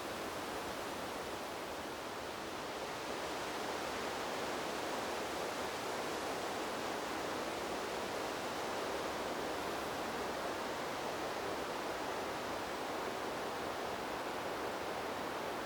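Wind blowing through trees: a steady, even rushing hiss that swells slightly about three seconds in.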